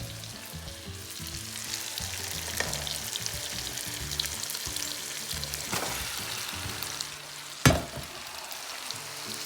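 Marinated chicken sizzling as it fries in a hot onion-tomato curry masala in a kadai. A sharp knock comes about three-quarters of the way through.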